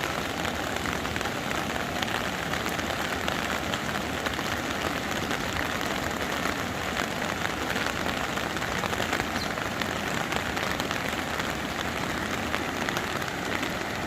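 Heavy rain falling steadily: a constant hiss dense with the hits of countless drops.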